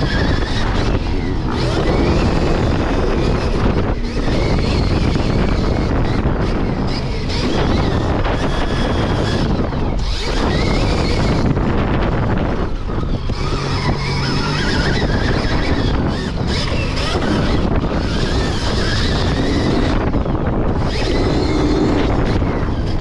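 Stark Varg electric motocross bike being ridden around a dirt track, its motor whine rising and falling under heavy wind buffeting on the microphone.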